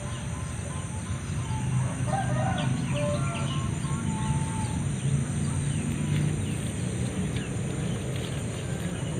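A rooster crowing and a few short chicken calls about two to four seconds in, over a steady high buzz of insects and a steady low hum.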